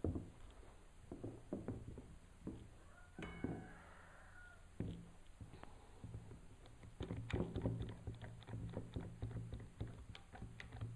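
Wood pieces and a clamp being handled and tightened on a glued-up board: scattered knocks and clicks, with a denser run of clicking in the second half.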